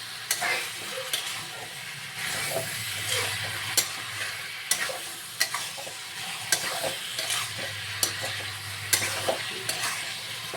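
Chicken curry frying and sizzling in a pan while a spatula stirs it, scraping and knocking against the pan in sharp clicks about once a second.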